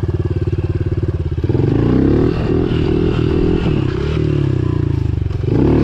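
Pit bike engine running at low, steady revs, then opened up about a second and a half in, its pitch rising and falling with the throttle, and revving up again near the end.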